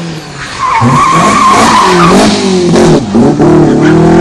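Rally car taking a hairpin: the engine note drops as it brakes, the tyres squeal for about a second and a half, then the engine revs up hard with short breaks in the note as it accelerates out.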